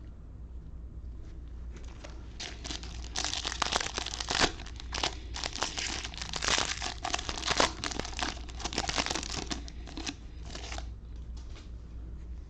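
Foil wrapper of a Bowman baseball card pack being torn open and crinkled, a dense crackling that starts about two seconds in and dies away near the end.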